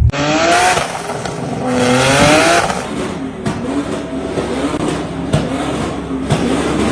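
Sports car engine accelerating hard, its pitch climbing twice in the first few seconds, then running on unevenly with a few sharp exhaust pops.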